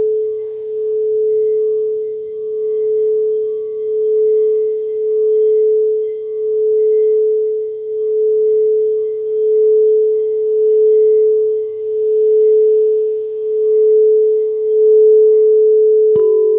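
Singing bowl held in a steady, sustained tone by circling the rim, wavering in level about every second and a half. Near the end a second bowl is struck, adding a higher ringing tone.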